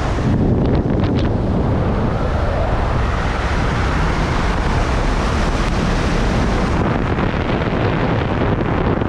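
Strong wind blasting the microphone: a heavy, steady rumbling roar, with a few brief crackles about a second in.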